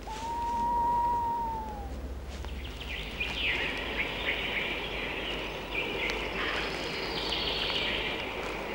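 Birds chirping and twittering over a steady background hiss. It opens with one held whistle-like tone that lasts about two seconds and dips at its end.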